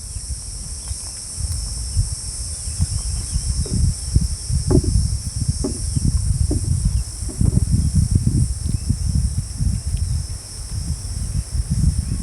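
A steady, high-pitched insect chorus, with a dense low rumble on the microphone that grows louder about two seconds in.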